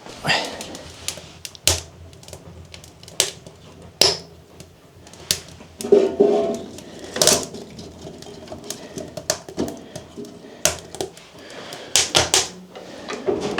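A string of sharp, irregular clicks and knocks, with a longer scraping clatter about six seconds in: hard objects being handled and set down in a small room.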